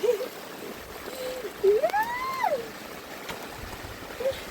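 Steady rain hiss with a few short vocal sounds from a person over it; the longest, about two seconds in, rises and falls in pitch like a call or cry.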